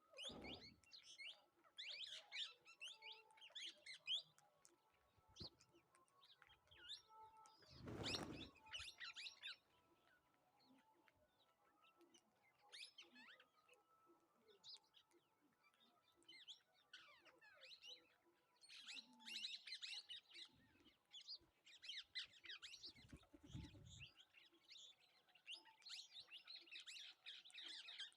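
Small birds chirping and twittering in quick, dense clusters throughout, with a short, louder thump about eight seconds in.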